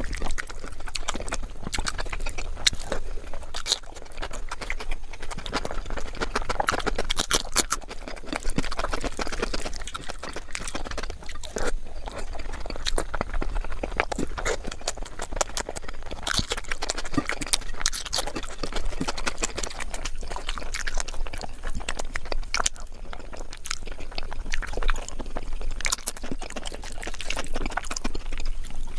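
Close-miked eating: wet chewing with many quick smacking clicks of the mouth, and fingers squishing rice and curry on the plate.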